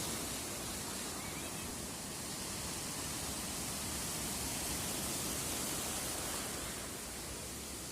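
Sea surf washing onto the shore: a steady hiss that swells gently through the middle and eases off toward the end.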